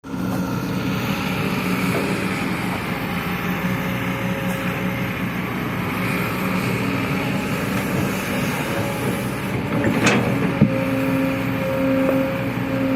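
Heavy machinery's diesel engine running steadily, with a sharp knock about ten seconds in.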